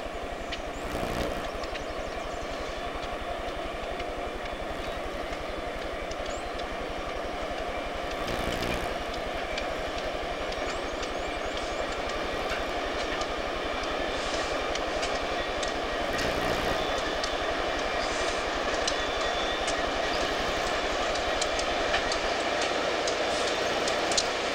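CSX freight train rolling by, growing slowly louder, with many short wheel clicks over the rails, thickest in the second half.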